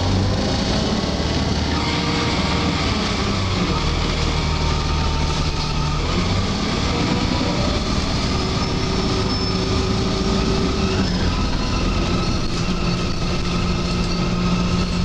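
Inside a moving Alexander Dennis Enviro 300 single-deck bus: the drivetrain runs steadily underneath, with thin high-pitched screeching tones drifting in and out over it.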